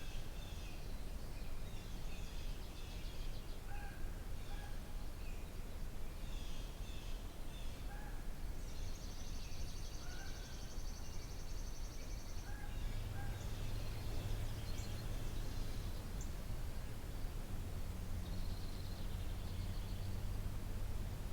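Several birds singing and calling, with short repeated high notes throughout and a high, even trill lasting about three and a half seconds near the middle. A low steady hum comes in past the halfway point under steady outdoor background noise.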